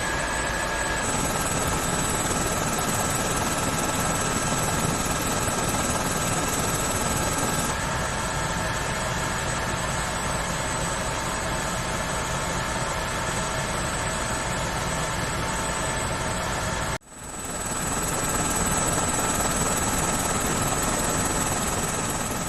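MH-65 helicopter running steadily: dense rotor and engine noise with a thin steady whine on top. The sound drops out abruptly about 17 seconds in and swells back within a second.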